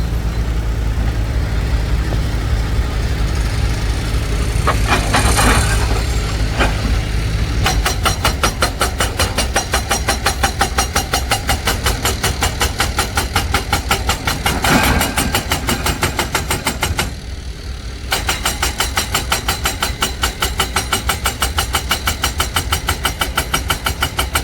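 Heavy dump truck's diesel engine running, with an even knocking rhythm of about four beats a second from about eight seconds in, briefly dropping away near the end.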